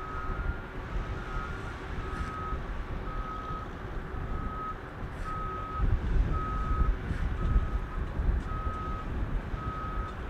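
A vehicle's reversing alarm beeps steadily about once a second, each beep a single tone, over a low rumble and wind buffeting on the microphone.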